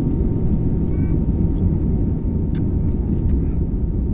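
Passenger airliner cabin noise in flight: a steady low rumble of engines and rushing air, with a few faint clicks.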